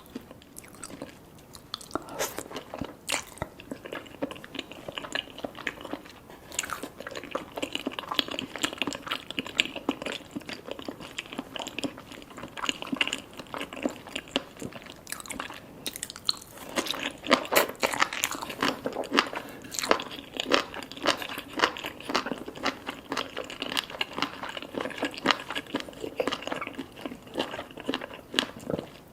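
Close-miked chewing of salmon sashimi with red tobiko and sea grapes: rapid wet crunching and small crackling clicks. It is lighter for the first couple of seconds and busiest from about halfway through.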